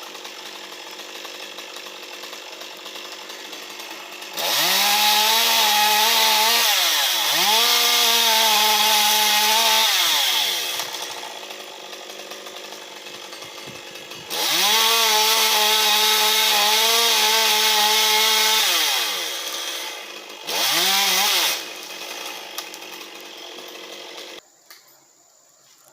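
Two-stroke chainsaw idling, then revved to full throttle twice for several seconds each, with a short blip afterwards. It is switched off near the end.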